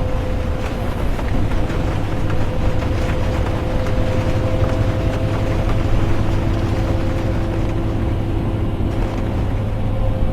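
Bus interior while driving: a steady low engine and road rumble with a constant hum over it, and the even hiss of rain and wet tyres.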